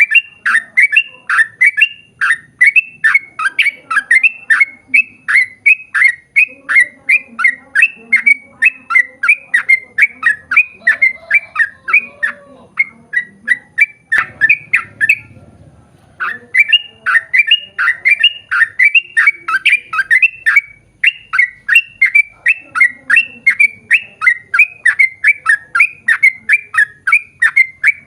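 Yellow-vented bulbul singing a long rapid run of short, sharp, falling notes, about two to three a second. It breaks off briefly about halfway through, then carries on.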